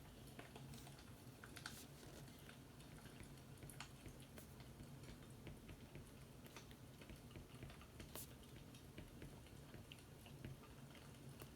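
Faint fireplace crackling: scattered irregular pops and ticks over a low steady hum.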